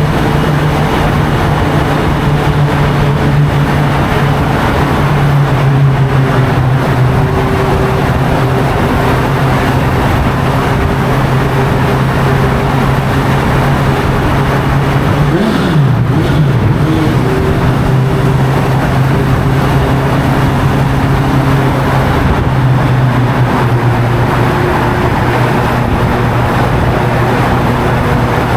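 Honda CB650F's inline-four engine through an Arrow exhaust, running at steady revs under way. About halfway through the revs drop briefly and come back up.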